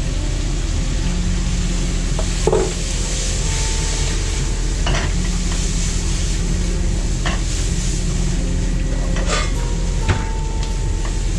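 Food sizzling and being stirred in a pan, with a few sharp clinks of a utensil against the pan, over a steady low hum.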